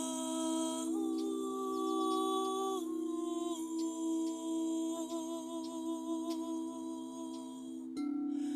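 A voice humming long held notes, stepping to a new pitch every second or few, with a slight waver on one note, over a steady drone.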